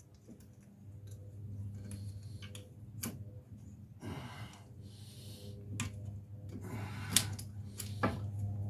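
Scattered light clicks and knocks of metal parts as the wheel hub bearing assembly is worked back onto the axle, a few seconds apart, over a steady low hum.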